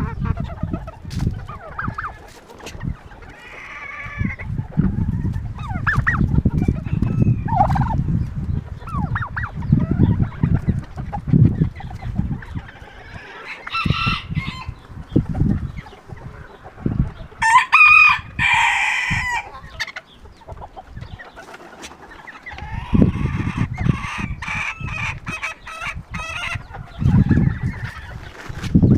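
Chickens clucking, with a rooster crowing loudly a little past the middle. Gusty wind buffets the microphone.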